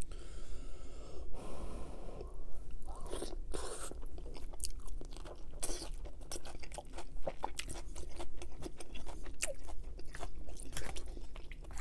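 Close-miked chewing of a mouthful of lasagna: wet, smacking mouth sounds with many small clicks.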